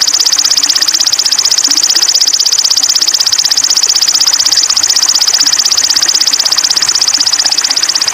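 A small songbird's high, very rapid trill: one even run of chirps many times a second, held without a break, as in a recording used to tutor caged sogon birds.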